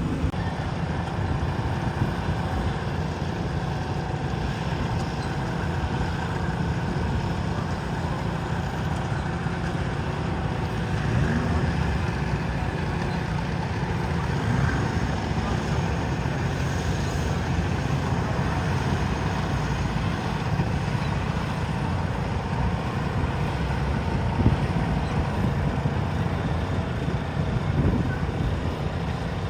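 Garden pulling tractor's engine running steadily, with no clear rise or fall in pitch.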